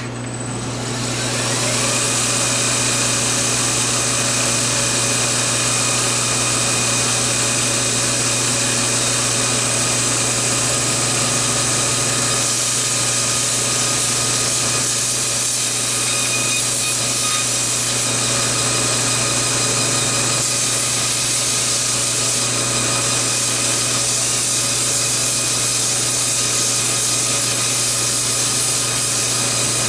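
TW90 belt grinder starting up with a 1x72 scalloped belt fitted: the motor and belt come up to speed over the first couple of seconds, then run at a steady speed with a constant hum and whine.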